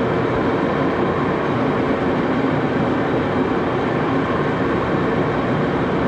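Axelson engine lathe running steadily at about 350 rpm during a thread-cutting pass on a small 8-32 screw: an even mechanical running noise with faint steady tones.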